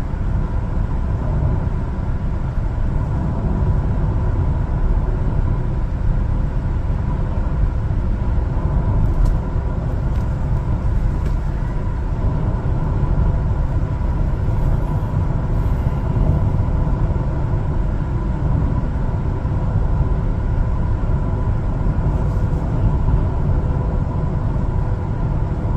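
One-ton LPG cargo truck under way: a steady low engine and road rumble with a faint steady whine over it.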